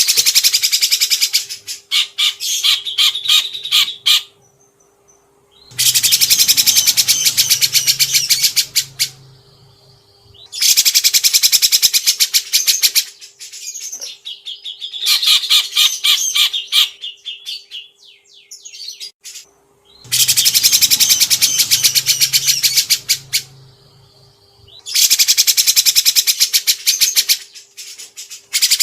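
Caged songbird singing in fast, dense trilled bursts of a few seconds each, about six of them with short pauses between, over a faint steady hum.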